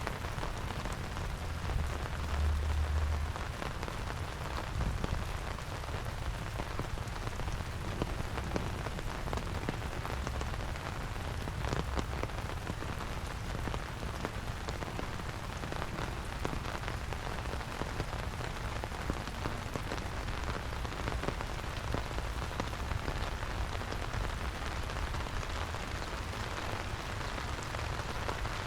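Steady rain falling, a dense patter of many small drops over a low rumble, with a brief louder low swell about two seconds in.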